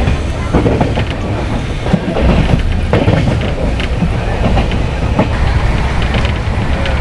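Jan Shatabdi Express passenger train running at speed. There is a steady rumble of the coach's wheels on the rails, with irregular clicks and knocks as the wheels pass over rail joints.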